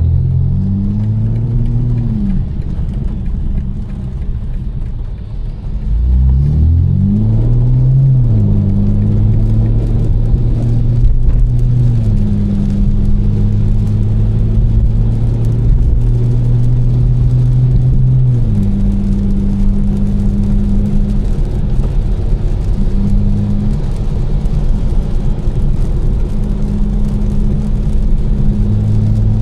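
Tuned BMW M4's twin-turbo inline-six, with catless downpipes and an Fi exhaust, driving. It revs up and back down in the first few seconds, eases off, then accelerates hard through a couple of quick upshifts. It settles into a steady cruise, drops in pitch about two-thirds of the way through as it shifts up, and carries on steadily.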